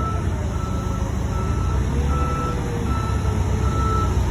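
Forklift backup alarm beeping steadily, a little more than once a second, over the low rumble of the forklift's engine as it manoeuvres to lift a container off a box truck.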